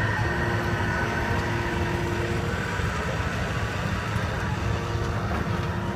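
Steady machinery running, an engine-like low hum with a few steady higher tones over it that thin out partway through.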